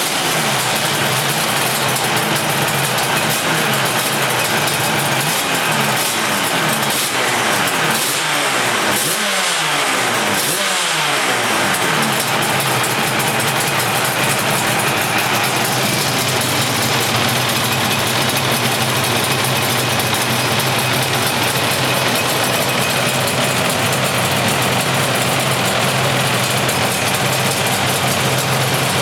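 Yamaha RD500 two-stroke V4 race-bike engine running, blipped up and down in a series of revs in the first ten or so seconds, then settling to a steady idle.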